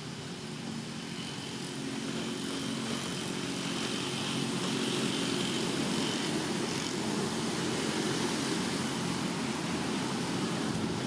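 A motor engine running with a steady low hum, growing louder over the first few seconds and then holding level.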